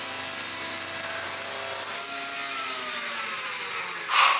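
A power saw's motor running steadily, then winding down with a falling whine from about two seconds in. A short, loud rush of noise comes near the end.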